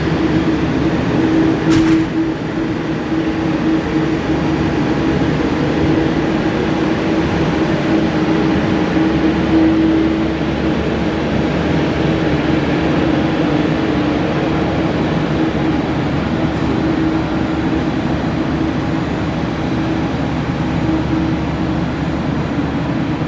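Steady, loud jet aircraft engine noise, a rumble with a steady hum through it, and one sharp click about two seconds in.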